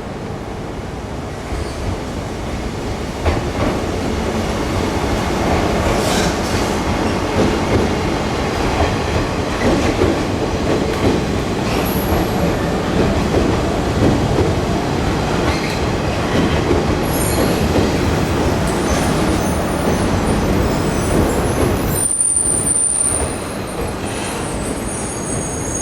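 Train running on the rails, its rumble building over the first few seconds, with short high-pitched metallic squeals in the second half and near the end.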